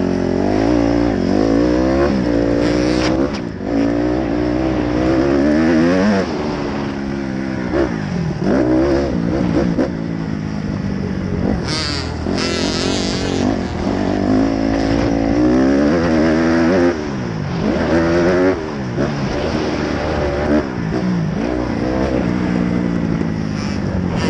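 Dirt bike engine running, its pitch rising and falling over and over as the throttle is opened and closed.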